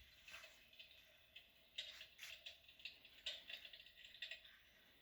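Faint crackling-fire sound effect from the electric fireplaces' built-in speakers: irregular soft crackles and pops, a few louder ones about two and three seconds in.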